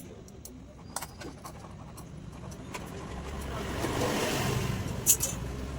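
A motor vehicle passing, its noise swelling and fading about four seconds in over a steady low hum, with a few sharp metallic clinks of tools on engine parts, the loudest about five seconds in.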